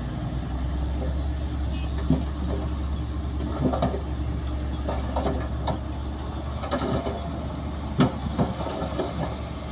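Komatsu D60P bulldozer's diesel engine running steadily, with scattered loud metallic clanks and knocks every second or two.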